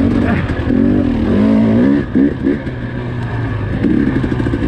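Four-stroke dirt bike engine running under a rider, its pitch rising and falling as the throttle is opened and closed, with a surge in the first two seconds and another near the end.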